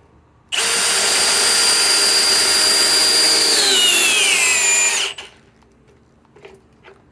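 Cordless drill driver on speed 1 driving an 8-inch lag screw into a pre-drilled hole. The motor and gearbox whine steadily, then drop in pitch as the drill bogs down under the load, and stop after about four and a half seconds.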